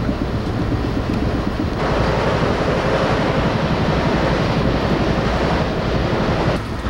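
Steady rumble and rushing of a moving passenger train, heard from inside the coach. A louder hiss comes in about two seconds in and drops away again near the end.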